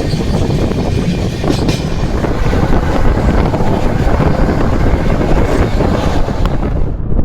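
Amrit Bharat Express train running at speed, a steady rumble of the coaches on the track with wind buffeting the microphone. The high hiss drops away about seven seconds in.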